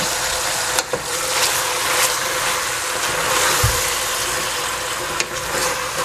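Vegetables sizzling steadily in a stainless steel pot over a gas flame. A wooden spatula stirs them and knocks against the pot a few times.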